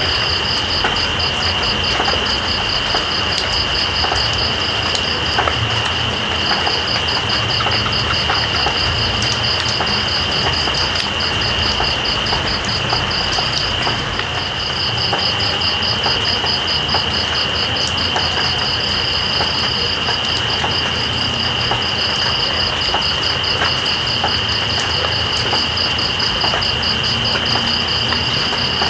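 Night insects calling over steady rain: one holds a continuous high-pitched buzz while another gives a rapid pulsing trill that stops briefly twice. Underneath runs an even hiss of rainfall with scattered drip ticks.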